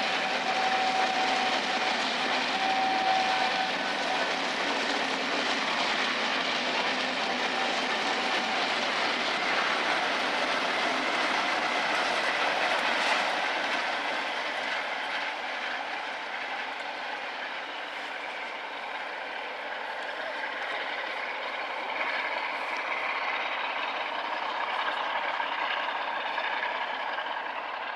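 An empty coaching stock train rolls past close by with a steady rush of wheel and rail noise. It is loudest in the first half, then eases as the train draws away.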